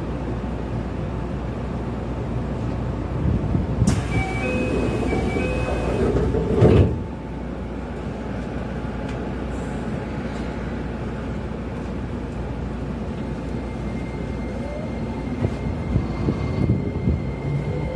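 Keio Inokashira Line electric train at a station stop, humming steadily; about four seconds in a short run of door-chime beeps sounds as the sliding doors close, ending in a thud about seven seconds in. Near the end the train pulls away with the electric motors' whine rising in pitch.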